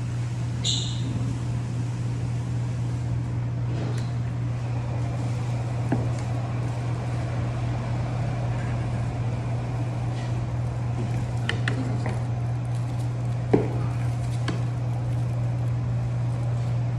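Car in motion: a steady low drone of engine and road noise, with a few short clicks and knocks; one knock, a little past the middle, is the loudest.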